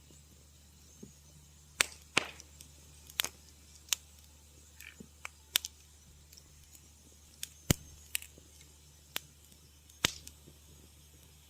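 Wood fire crackling in a fireplace: about a dozen sharp pops and snaps at irregular intervals, some loud and some faint, over a faint steady low hum.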